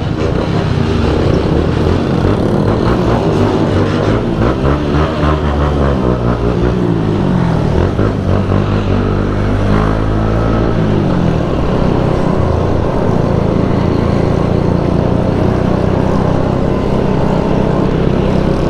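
Motorcycle engines of a riding convoy climbing a street, one engine's pitch rising and falling several times through the middle as it accelerates and shifts, then running at a steadier pitch.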